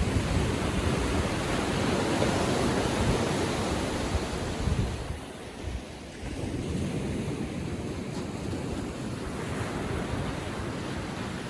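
Gentle ocean surf: small waves breaking and washing up a sandy beach. The wash eases off about five seconds in, then the next wave comes in.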